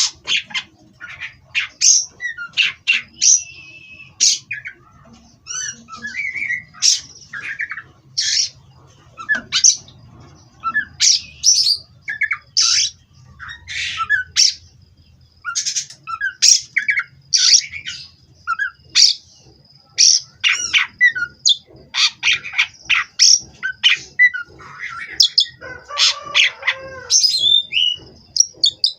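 Oriental magpie-robin (kacer) singing: a long, rapid string of short, varied whistles, chirps and harsh notes with brief gaps, over a thin steady high tone.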